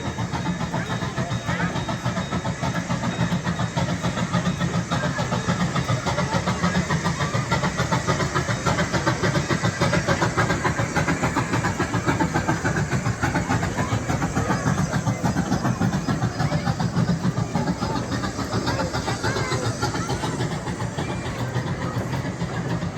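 Zoo train running past, its engine chugging steadily and growing a little louder in the middle as it passes, with people's voices mixed in.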